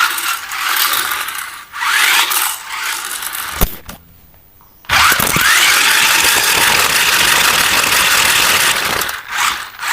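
Small electric motor and gearing of a remote-control toy whirring, spinning up with a rising whine. It stops for about a second, then spins up again and runs steadily.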